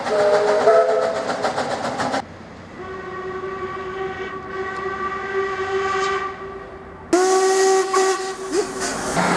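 Train horns and whistles sounding in short clips cut one after another. First comes a chord of held tones over a rapid clatter, which cuts off about two seconds in. Then a single steady whistle sounds for about three seconds, and about seven seconds in another horn chord starts suddenly.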